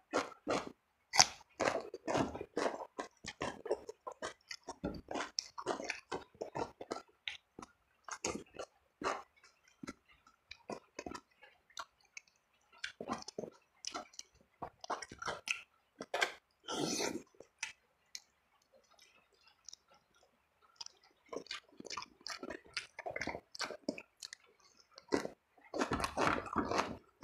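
Close-miked chewing and biting of a spicy eel and tempe meal, with wet mouth clicks and crunches one after another. There is a quieter stretch about two-thirds of the way through and a dense burst of chewing near the end.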